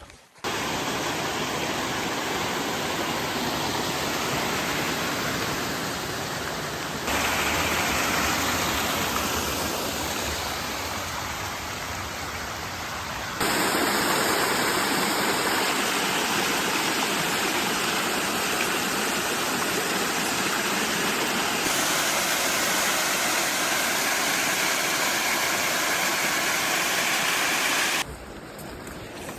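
Steady rushing of a flooded mountain river or stream. It comes in several shots cut together, each jumping abruptly to a new level.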